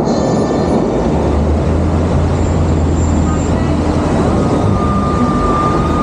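Bellagio fountain water jets rushing and spraying, a loud steady roar of falling water.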